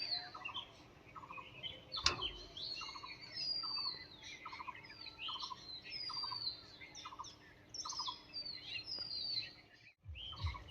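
Several birds chirping, with many quick high notes sliding downward and a short stuttering call repeated steadily, roughly every second. A single sharp click comes about two seconds in.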